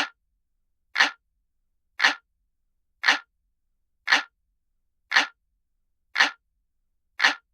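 Analog clock ticking, one sharp tick a second with silence between, looped as a countdown timer sound.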